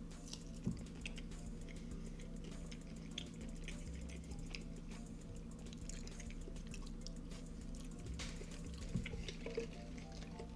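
Close-up mouth sounds of eating a sauced chicken wing: soft chewing with many small wet clicks and smacks, over faint background music.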